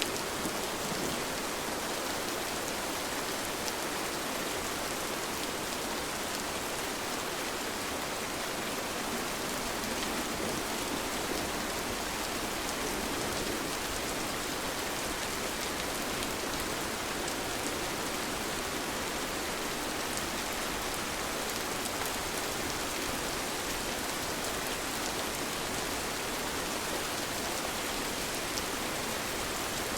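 Steady rain falling, an even hiss with faint patter of drops striking surfaces.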